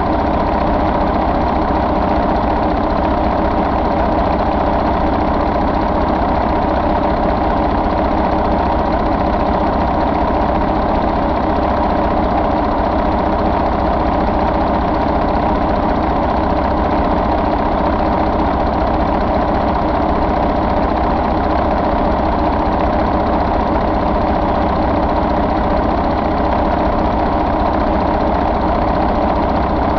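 Mercedes-Benz MBE4000 inline-six diesel engine idling steadily.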